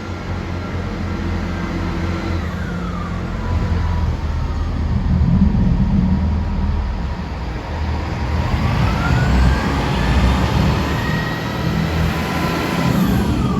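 Train passing over a level crossing: a heavy engine rumble, with higher tones that bend down and up in pitch as it goes by.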